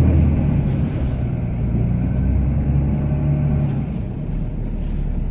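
Cummins inline-six turbodiesel in a Ram pickup, running steadily while the truck plows snow, heard from inside the cab; the engine note drops a little about two-thirds of the way through.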